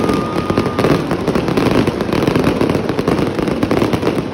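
Aerial fireworks display going off in a dense barrage of rapid pops and crackling, with a short steady whistle during the first second.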